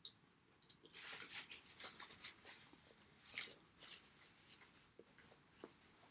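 Faint chewing of pizza with small mouth clicks, and the soft rustle of a paper napkin rubbed between the hands.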